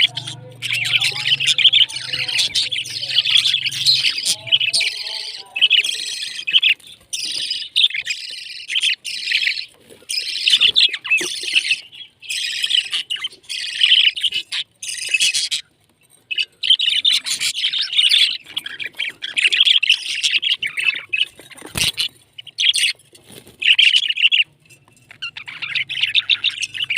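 Pet parrots chirping and chattering in dense runs of short, high calls, with brief pauses between runs. A low steady hum sits under the first few seconds and comes back near the end.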